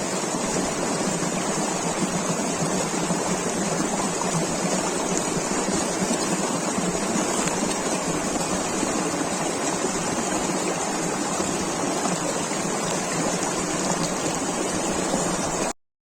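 River flowing: a steady rush of water that cuts off suddenly near the end.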